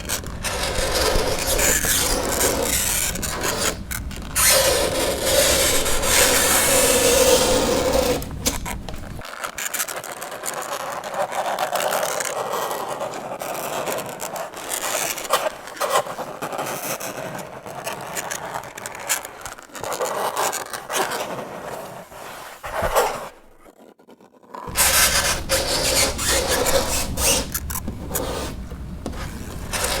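Fingernails scraping across a chalkboard in a long run of uneven rasping strokes, broken by a short pause about three-quarters of the way through.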